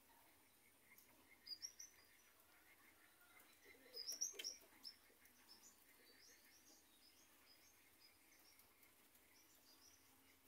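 Faint bird chirps over near silence: a short cluster of high calls about a second and a half in, a louder cluster around four seconds with a single click, then a string of softer chirps.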